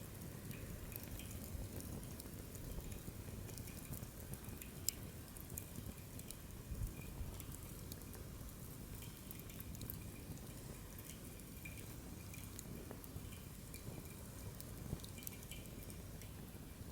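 Wood fire in a fire-pit stand burning, with scattered sharp crackles and pops over a low steady rumble of flame, and a faint thin hiss coming and going.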